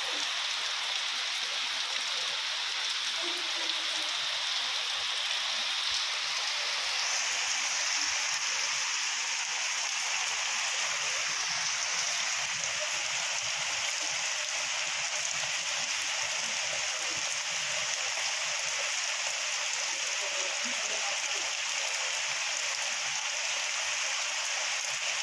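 Heavy rain falling steadily in a continuous hiss of rain on the surfaces.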